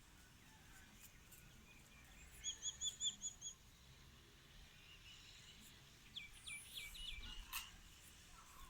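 Faint bird calls: a quick run of about eight short, evenly spaced chirps some two and a half seconds in, then a second run of falling notes about six seconds in. A single sharp click comes near the end.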